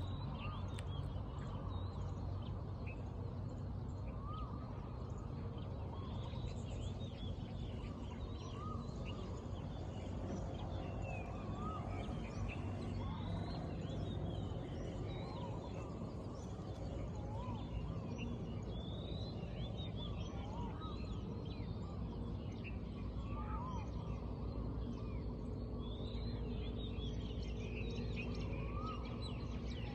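Several birds calling in the morning: short, high chirps overlap throughout, with a lower arched note repeating every few seconds, over a steady low background hum.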